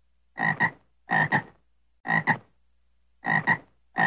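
Frog croaking in a steady series, about four croaks, each a quick double note, roughly one a second.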